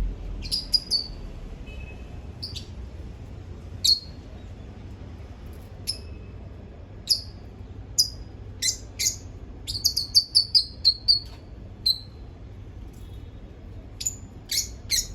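A bird chirping in short, sharp, falling chirps, scattered through with a quick run of about ten chirps around the middle, over a steady low hum.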